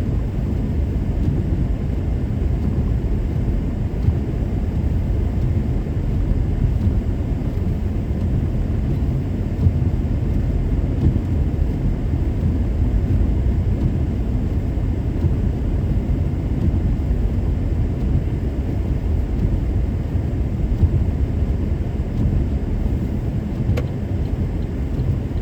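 Steady low rumble of a car on winter tyres driving along a snowy road, heard from inside the cabin: tyre and engine noise that holds an even pace throughout.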